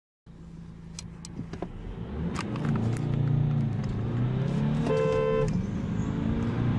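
BMW 3 Series (F30) diesel engine accelerating hard, the sound building over the first few seconds and then staying loud, with a few sharp clicks early on. A short pitched tone sounds for about half a second around five seconds in.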